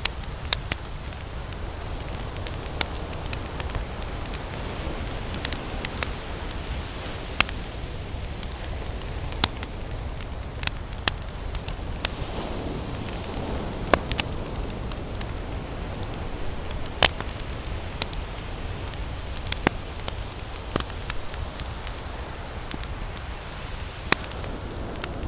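Campfire crackling, with irregular sharp pops and snaps scattered through it over a steady low rumble.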